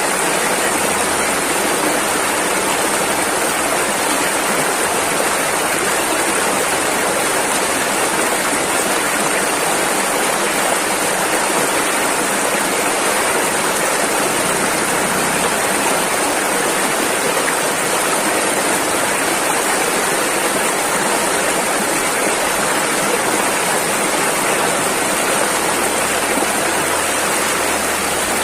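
Rushing river water: a steady, loud wash of fast-flowing rapids with no breaks or changes.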